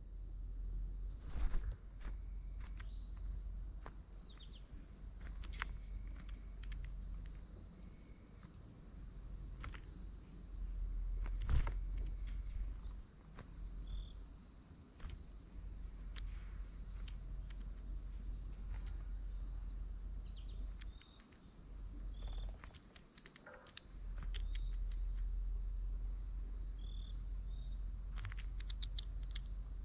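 Steady high-pitched chorus of crickets, with a few short high chirps and scattered clicks.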